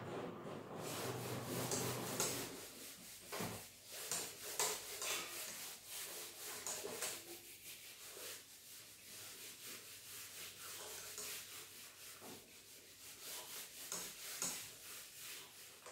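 Short, irregular rubbing and scratching strokes on a writing surface, as when a board or page is wiped or written on between worked examples. The strokes are busiest in the first few seconds and become sparser later.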